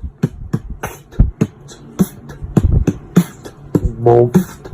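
Beatboxing: a person's voice making a quick rhythm of kick-drum thumps and hi-hat clicks, with a short hummed tone about four seconds in.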